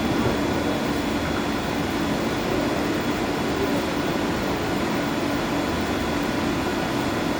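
Steady mechanical hum and rush of running boiler-house equipment such as pumps and fans, even in level, with a faint steady low tone.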